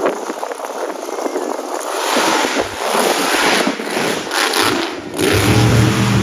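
Monster truck engine running and revving hard, growing louder about two seconds in, with a deep, steady engine note standing out near the end.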